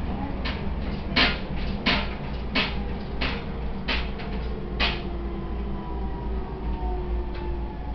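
E127 series electric train running: a steady low rumble with seven rhythmic clicks of the wheels over rail joints, about one every 0.7 s, which stop about five seconds in. A faint whine slowly falls in pitch.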